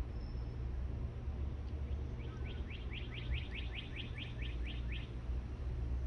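A garden bird sings a rapid trill of about a dozen short, evenly spaced notes, roughly five a second. It starts about two seconds in and lasts nearly three seconds. Underneath, a steady low rumble of breeze on the microphone.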